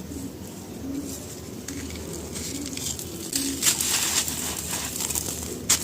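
Dry charcoal pieces being crumbled, a run of crackly crunches starting about two seconds in, with one sharp crunch near the end. A low cooing, like pigeons, repeats about once a second underneath.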